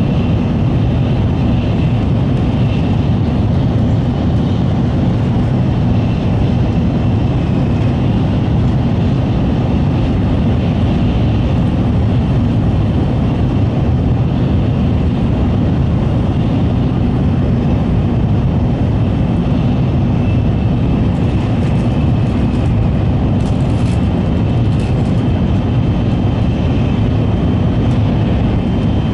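Steady rumble of an N700-series Shinkansen running at speed, heard from inside the passenger car, with a faint high whine above it and a few light ticks a little over 20 seconds in.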